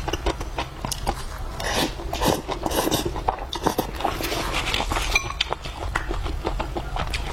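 A person eating close to the microphone: chewing, with many quick small clicks and smacks and a noisier stretch about two seconds in.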